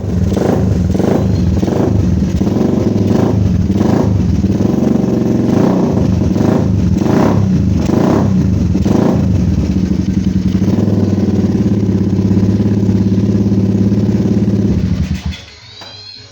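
Suzuki Satria FU's 150 cc single-cylinder four-stroke engine breathing through an aftermarket ProLiner exhaust, revved in quick repeated throttle blips about one a second for the first nine seconds or so. It then runs steadily and stops near the end.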